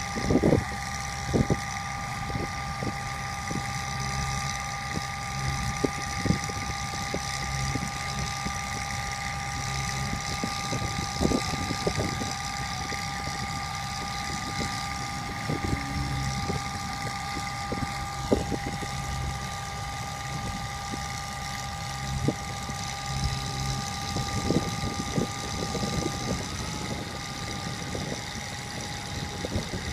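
Bucket truck engine running steadily with a high whine on top, and irregular sharp clicks and knocks; the whine shifts slightly in pitch near the end.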